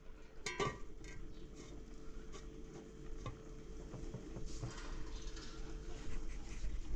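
Cooking utensils and dishes knocking and clinking now and then, over a faint steady hum.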